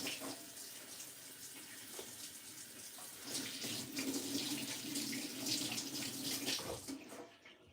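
Water running from a tap into a sink, splashing unevenly, then shut off about seven seconds in.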